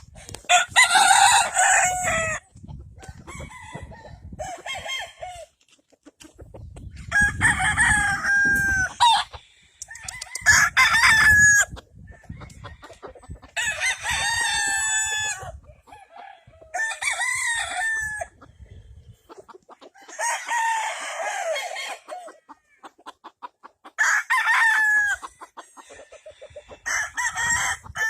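Gamefowl roosters crowing, one crow after another every few seconds, each crow lasting one to two seconds.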